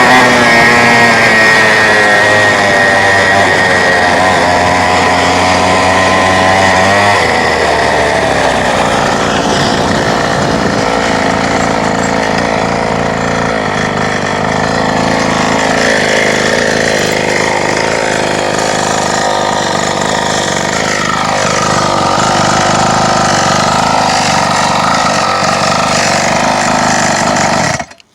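Stock 49cc two-stroke mini quad engine running loud and close, its pitch rising and falling as it is revved. The sound cuts off abruptly near the end.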